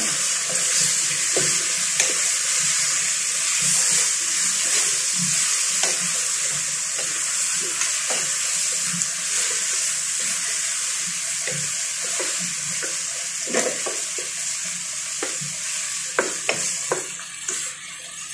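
Chicken pieces sautéing in hot oil with garlic in a non-stick pot, with a steady sizzle, while a spatula stirs them and knocks and scrapes against the pan. The sizzle dies down near the end.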